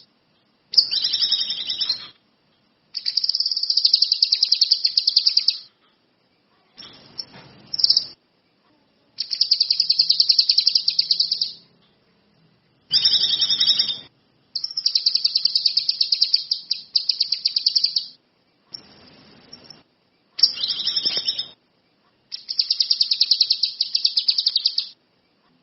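Kinoi songbird singing in repeated bursts of fast trilled chirps, each one to three seconds long with short silent gaps between them.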